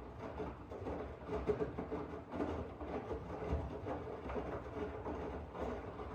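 Miele W1 washing machine running, with a steady but uneven churning and rattling.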